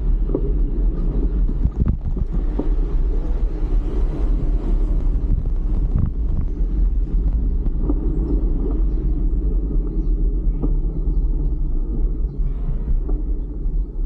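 Steady low rumble of wind buffeting the camera microphone while riding a fixed-gear bike, with a few faint knocks.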